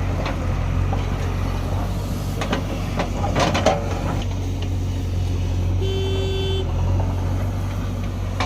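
Heavy diesel engine of a backhoe loader or tractor running steadily, with a few knocks around three seconds in and a brief steady horn-like tone about six seconds in.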